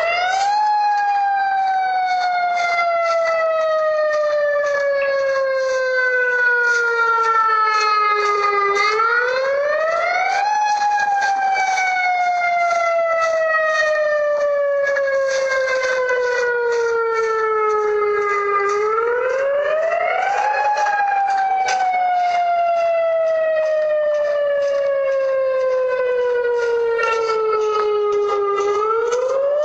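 Tsunami warning siren wailing in long cycles: the pitch rises quickly, then slides slowly down over about eight seconds before rising again, about every ten seconds. It is sounding the alarm for a tsunami warning.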